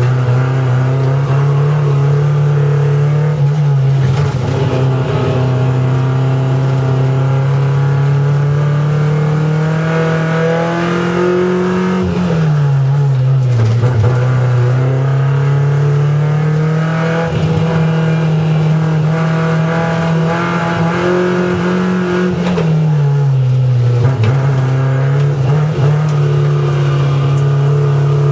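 Race car engine heard from inside the cockpit, run hard at high revs. Its pitch climbs slowly, then drops sharply twice, about twelve and twenty-three seconds in, before climbing back.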